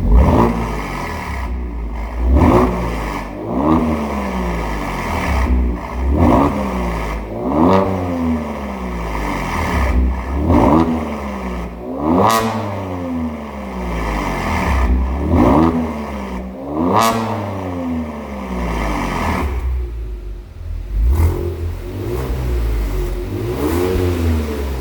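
Kia Stinger engine revved repeatedly through a Meintech V4 valved aftermarket exhaust, about a dozen sharp blips with the revs sweeping back down after each one. The revving eases off briefly near the end, then picks up again.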